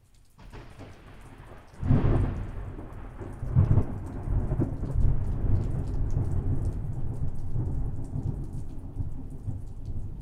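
Thunder during a rainstorm: a sudden crack about two seconds in, a second loud peak a moment later, then a long low rumble that slowly dies away, with steady rain throughout.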